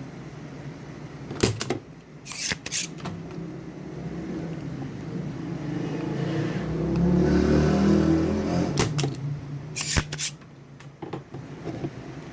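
Workbench noises from desoldering a faulty component off an amplifier's circuit board: several sharp clicks and handling knocks, and a rushing noise that swells for a few seconds and cuts off suddenly, over a steady low hum.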